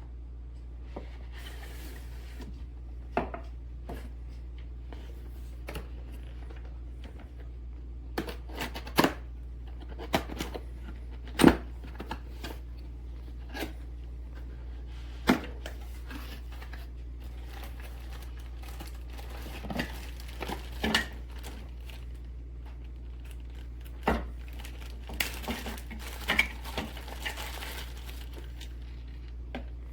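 Handling noises: scattered sharp clicks and knocks with bursts of rustling, over a steady low hum.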